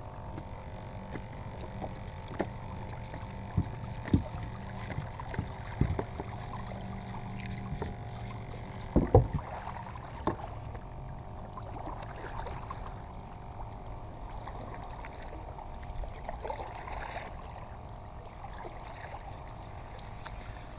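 Small fishing boat under way across the water: a steady hum runs throughout, broken by several sharp knocks on the hull, the loudest a pair about nine seconds in.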